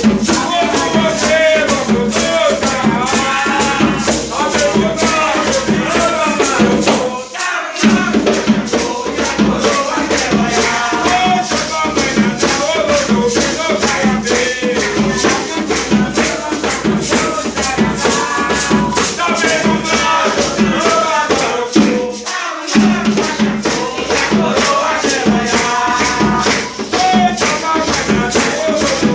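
Singing with a shaken rattle keeping a steady, fast rhythm, dropping out briefly twice.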